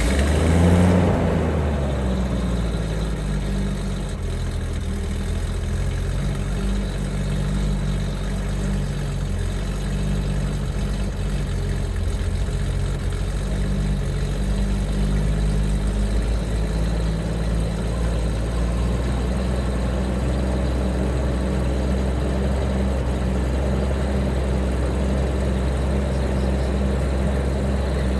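Toyota 2F straight-six of a 1969 Land Cruiser FJ40 catching on a cold start, rising briefly about a second in, then settling into a steady idle with the choke half out.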